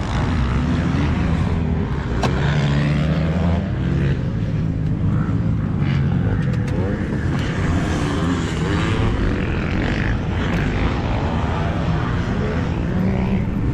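Dirt bike engines running at a motocross track, idling and revving, with the pitch rising and falling.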